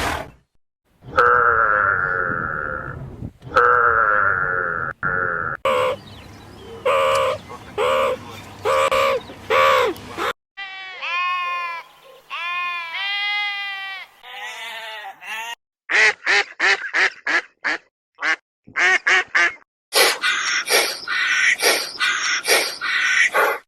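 A string of separate recorded waterfowl calls, cut one after another: ducks quacking and goose-like honking calls. Some are long drawn calls, others short calls repeated several times a second.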